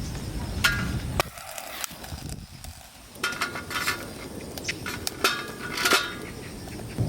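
A handful of light metallic clinks and knocks, like camp cookware and utensils being handled, spaced a second or so apart over a low outdoor background hum.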